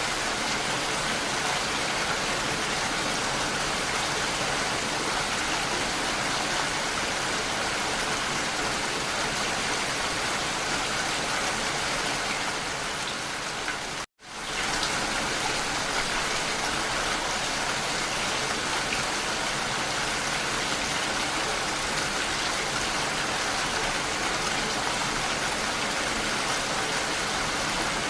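Steady, even rain falling as a dense hiss. About halfway through it briefly fades to silence and comes straight back.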